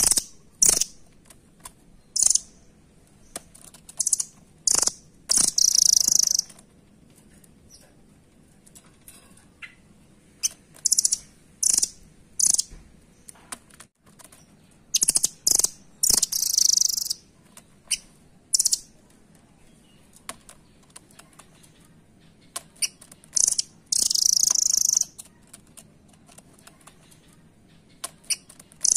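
Nuthatch (rambatan) calling: clusters of short, high-pitched chirps with several longer runs of about a second each, separated by quiet gaps.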